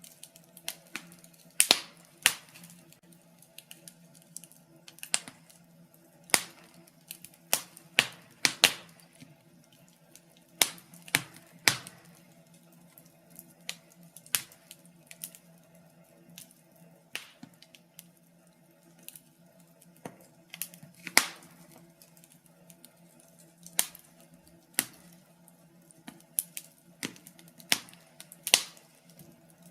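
Wood fire in a fireplace crackling, with irregular sharp pops and snaps of varying loudness. A faint steady low hum runs underneath.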